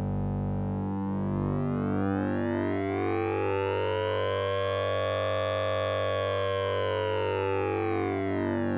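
Synthesized sync-and-ring-modulated tone from the Orange Vocoder VST plugin. A steady low drone lies under a cluster of overtones that sweep slowly up to a peak about five and a half seconds in and back down again, like a slow siren.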